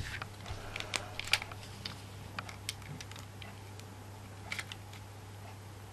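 Scattered small clicks and light taps of craft materials and tools handled on a work table, a cluster of them in the first two seconds and a few more near the end, over a steady low hum.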